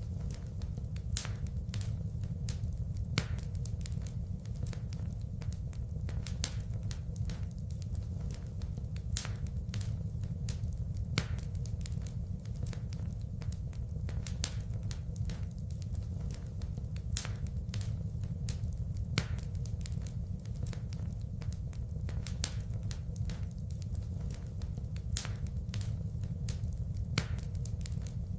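Wood fire in a fireplace crackling: many short, sharp pops and snaps at irregular moments over a steady low rumble of burning.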